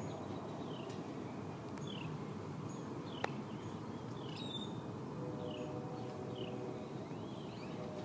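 A small bird calling repeatedly with short, falling chirps, about one a second, over a steady distant city hum. There is a single sharp click a little over three seconds in.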